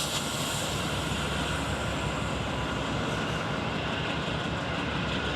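A train rolling by, giving a steady rumble of wheels on the rails.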